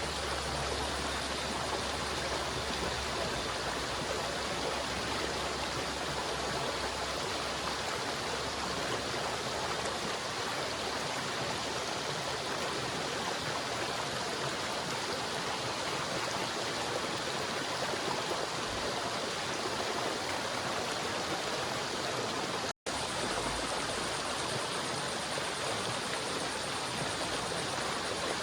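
River water flowing steadily, an even rushing wash of sound that cuts out completely for a split second about 23 seconds in.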